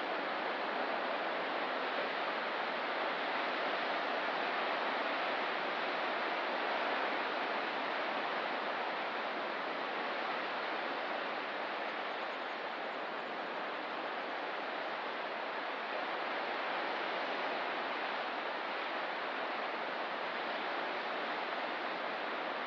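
Ocean surf making a continuous, even rushing wash with only slight swells in level.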